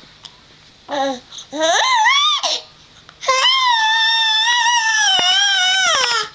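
A 4-month-old baby squealing: a short call about a second in, a rising squeal, then a long high-pitched squeal held for about three seconds that drops in pitch at the end.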